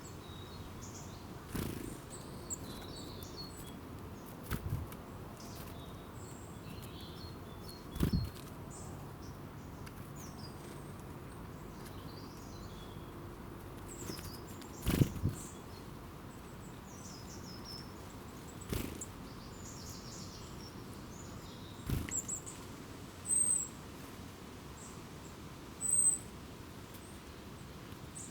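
Small wild birds chirping in scattered short, high calls over a steady outdoor hiss, with a few brighter single chirps near the end. Several sudden thumps or knocks break in, the loudest about halfway through.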